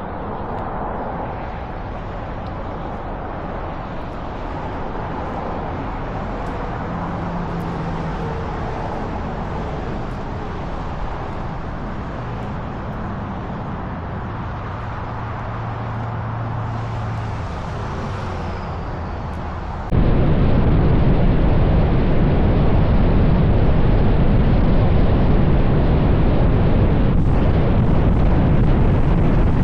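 Steady outdoor rumbling noise with no distinct events, jumping suddenly much louder and heavier about twenty seconds in.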